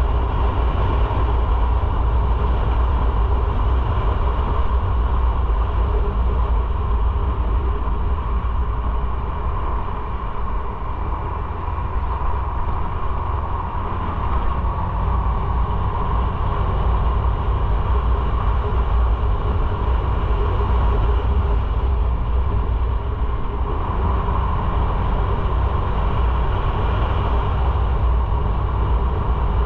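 Motorcycle engine running steadily while riding, with heavy low road and wind noise. The engine note eases for a few seconds about ten seconds in, then picks up again.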